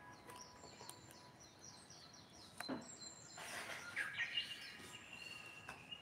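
Faint bird chirping: a quick run of high, falling chirps in the first second or so, then more chirps in the second half.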